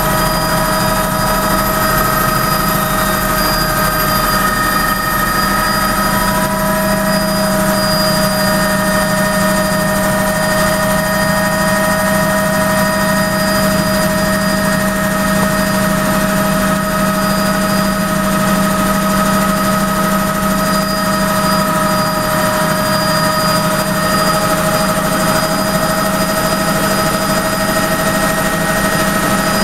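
Helicopter in flight, heard from inside the cabin: a steady, loud drone with a low hum and several steady higher tones, unchanging throughout.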